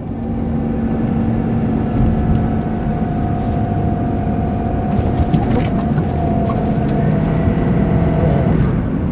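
A vehicle driving, heard from inside the cab: a steady drone of engine and road noise with a held whine that stops near the end.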